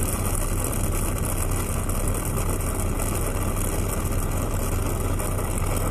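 A vehicle engine idling steadily: a low, even hum under a constant hiss.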